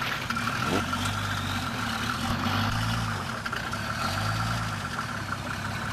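A car engine idling, its pitch swelling and falling back about three times, with a steady high whine over it.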